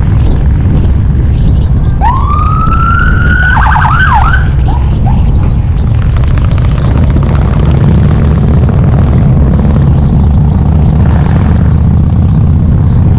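Harley-Davidson V-twin engine running steadily under way. About two seconds in, a siren sounds briefly: it rises, holds, warbles quickly and falls away.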